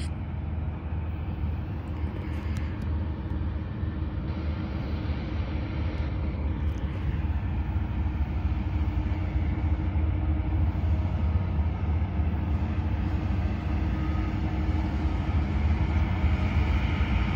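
Diesel-electric freight locomotives approaching: a steady low engine rumble that grows gradually louder as the train nears.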